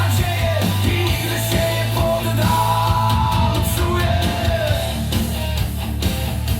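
Guitar-driven rock music with a singing voice and heavy steady bass, played back through a portable Bluetooth party speaker.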